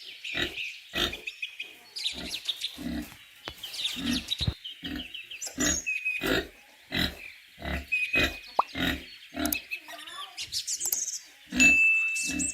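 Domestic pig grunting over and over in short, separate grunts, roughly two a second.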